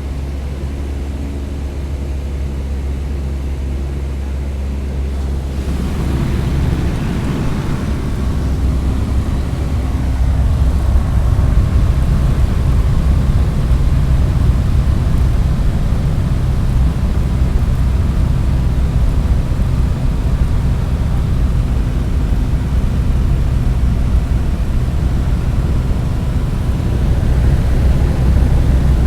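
Airplane in flight with a steady low engine drone. About six seconds in, a rush of wind swells in over it, growing louder until about ten seconds and then holding steady, as when a window is opened in flight.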